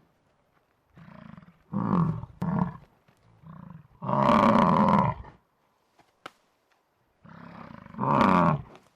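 Buffalo bellowing in a series of deep, drawn-out calls. The loudest lasts over a second about four seconds in, and another comes near the end.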